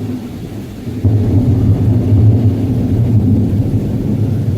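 Loud, low rumble of thunder that swells about a second in and keeps rolling steadily.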